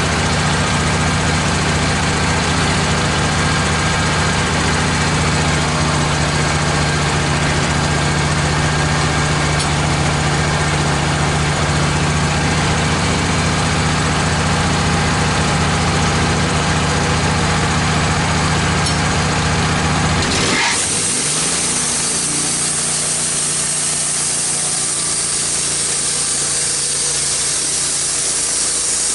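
Wood-Mizer LT15 portable band sawmill running steadily as its band blade saws a two-inch board from a red oak log. About two-thirds of the way through, the low engine note drops away abruptly with a short falling pitch, leaving a steady high hiss.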